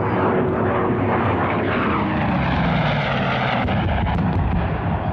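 Vintage piston-engine fighter plane flying overhead, a steady loud propeller engine drone.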